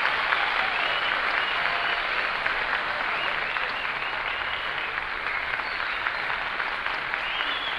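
Concert audience applauding after a jazz number, with a few high whistles, the clapping slowly dying down.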